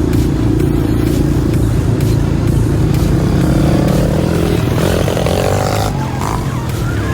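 Dirt bike engine running, held at a fairly steady pitch, with the sound of the bike's motion.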